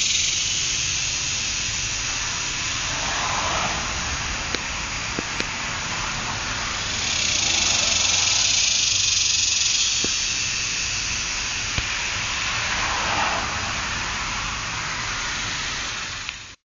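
Cicadas buzzing steadily in a high, hissing drone, swelling louder for a few seconds in the middle.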